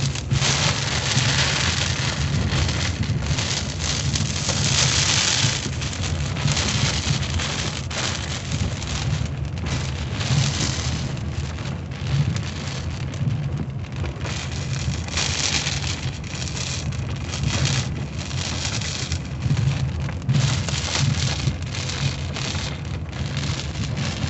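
Heavy rain pelting the windshield of a 1985 Cadillac Cimarron, heard from inside the cabin, swelling and easing in gusts over the car's steady low rumble as it drives.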